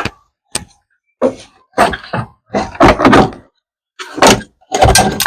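A sharp click, then a series of short clunks and clattering, the sound of hand tools and metal engine parts being handled while the engine is stripped.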